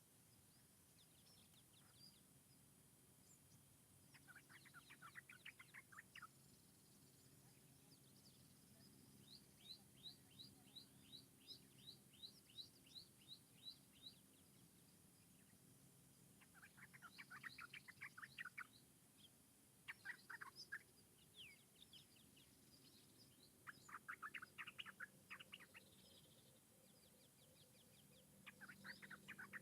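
Songbirds chirping in short bouts of rapid notes, several seconds apart, over faint forest ambience. One bout is a quick run of high, evenly spaced notes, about four a second.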